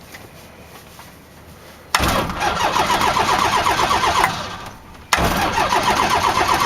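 Light-aircraft engine being turned over on its electric starter in two bursts, about two seconds each, with a steady pulsing beat. Each burst starts abruptly and winds down without the engine catching and running.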